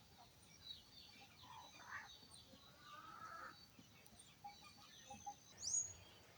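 Faint birds calling, with scattered short chirps and whistles. One high, rising whistled call near the end is the loudest.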